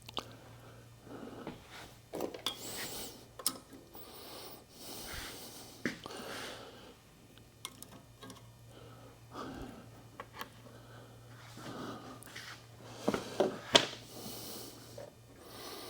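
Hand work on engine parts: scattered clicks, knocks and rubbing of metal pieces being handled, loudest near the end, over a steady low hum.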